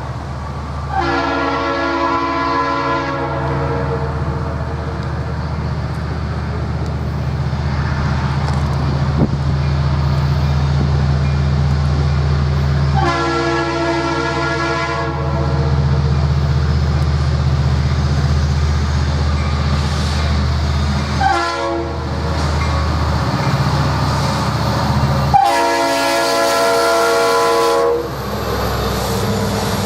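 Diesel freight locomotive rumbling, its multi-tone air horn sounding two long blasts, a short one and a final long one: the long-long-short-long signal for a grade crossing.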